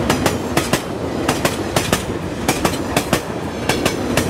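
Train wheels clattering over rail joints, clickety-clack over a steady rumble: sharp clicks, mostly in close pairs, about every half second, as two trains pass each other.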